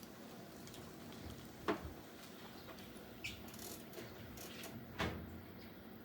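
Two sharp clunks with a short ring, about three seconds apart, and a smaller tick between them, over a faint steady hum.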